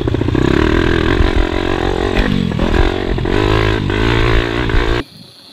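Pitbike engine running hard and revving up and down as it is ridden. The note dips and climbs again about halfway through, and the sound cuts off abruptly near the end.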